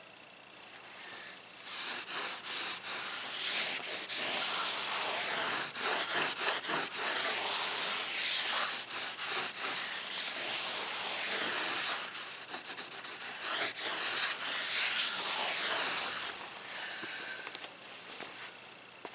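A long run of scraping and rubbing with knocks as a spare tire is worked back into its carrier under a pickup truck. It starts about two seconds in and eases off near the end.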